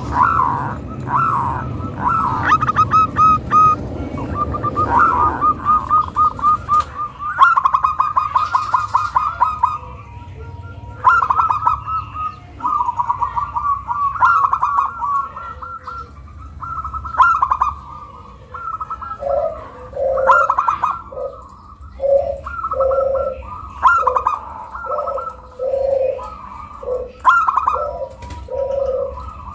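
Zebra dove (perkutut) cooing: runs of quick, rattling high coos. From about two-thirds of the way in, lower, deeper notes alternate with them. It is lure song, meant to set other zebra doves singing.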